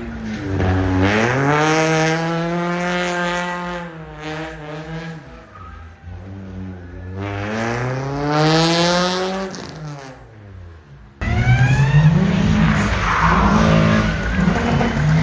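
Sports car engines revving during a drift event. An engine climbs and falls in pitch twice, then after an abrupt cut a car runs hard at high revs with its tyres squealing as it slides.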